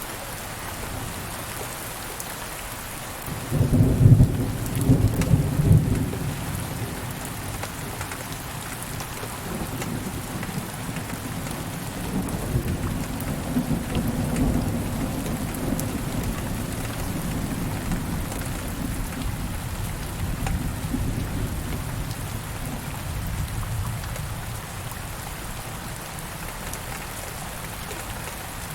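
Steady rain falling, with a roll of thunder that breaks suddenly about three and a half seconds in, peaks for a few seconds, then rumbles on and fades away.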